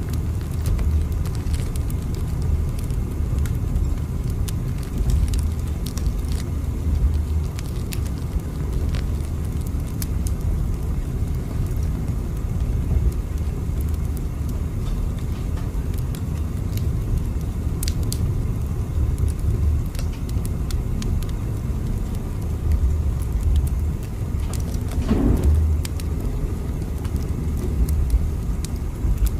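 Steady low rumble of a train running, as heard from inside a carriage, with scattered light clicks and creaks and a brief swell about 25 seconds in.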